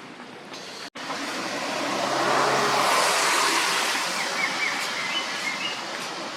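A road vehicle passing by: a rushing noise that swells to its loudest about three seconds in, then slowly fades away.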